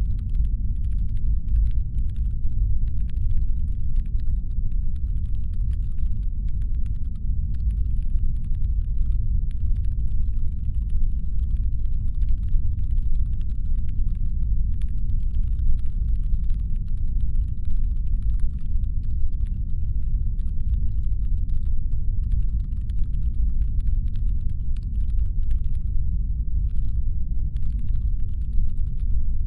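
Steady brown-noise rumble, designed as a spaceship's engine hum. Over it runs a much fainter layer of dense, irregular ticking and crackling.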